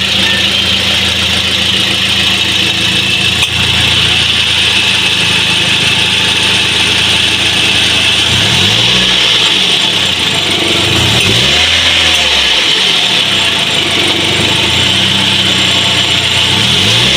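Toyota Vios petrol engine idling, freshly fitted with a new fuel pump, filter and fuel pressure regulator to cure hard starting. It is revved up and back down three times in the second half, over a steady high hiss.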